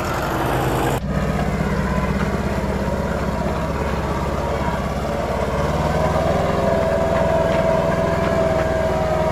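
UAZ off-road vehicle's engine running steadily while driving, with a steady whine joining about two-thirds of the way in.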